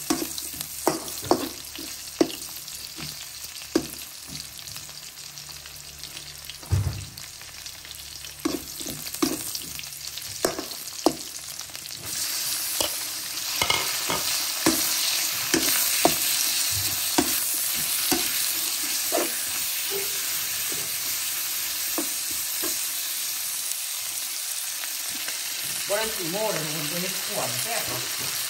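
Garlic and ginger frying in oil in a nonstick electric wok, stirred with a spatula. The spatula scrapes and taps against the pan while the oil sizzles, and the sizzle grows louder and hissier about twelve seconds in.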